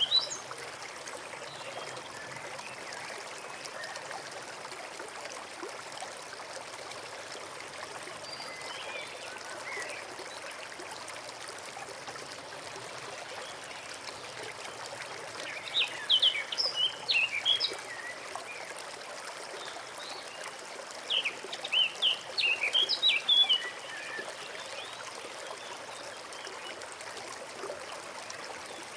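Forest stream trickling steadily, with a songbird singing bursts of quick, high chirping phrases twice in the second half, plus a few fainter chirps earlier.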